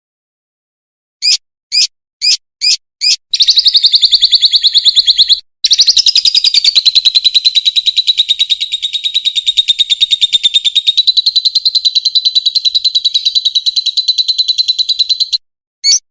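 Songbird song: five short sharp notes about half a second apart, then a very fast, evenly repeated high trill at a steady pitch. The trill runs for about ten seconds with one brief break and ends in one more short note. This is the rapid-fire 'tembakan rapat' delivery prized in masteran recordings.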